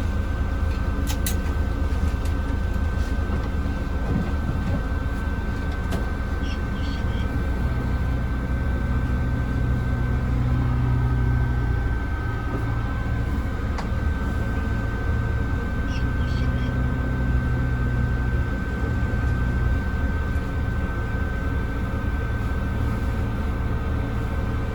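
Mercedes-Benz O307 city bus heard from inside its passenger cabin while driving: the diesel engine runs steadily, its note strengthening twice, about a third of the way in and again past halfway, over a steady high whine.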